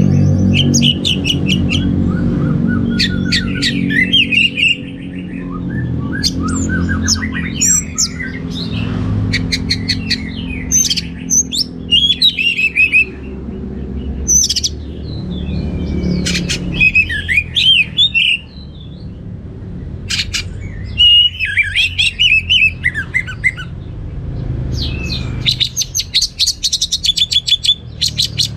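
Orange-headed thrush singing a varied song of whistled, warbling phrases and sharp chirps with short pauses between them, with a fast run of sharp notes near the end. A low steady hum runs underneath and is strongest at the start.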